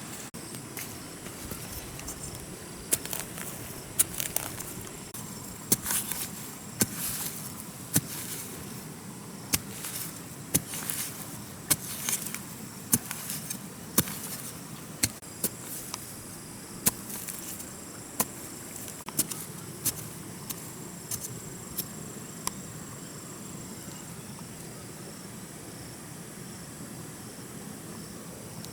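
Irregular sharp knocks and cracks, dozens of them, thinning out after about twenty seconds, over a steady high-pitched insect drone.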